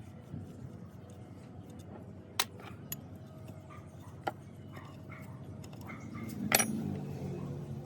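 A few sharp metallic clinks and knocks, spaced irregularly, the loudest about six and a half seconds in with a brief ring, over a low steady hum; typical of metal tools and gearbox parts being handled.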